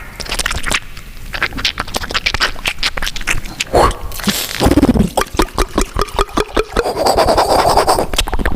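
Mouth-made beatbox sound effects: a run of sharp clicks and scrapes, a short tone falling in pitch about halfway through, fast clicking after it, and a hiss near the end.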